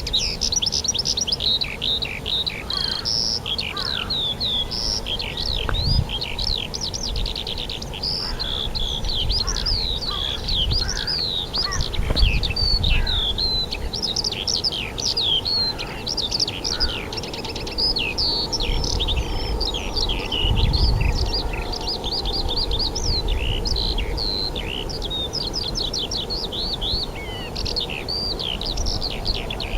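Dense chorus of many songbirds singing at once: overlapping chirps, trills and quick whistled glides with no break. Low rumbles come in a few times.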